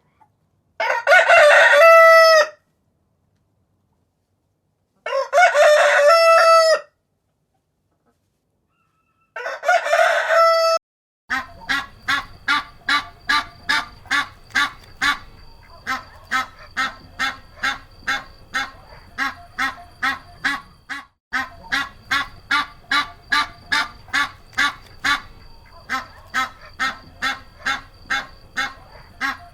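A rooster crows three times, each crow about a second and a half long, with silence between. Then, from about eleven seconds in, a duck quacks rapidly and steadily, about two quacks a second, with a brief pause partway through.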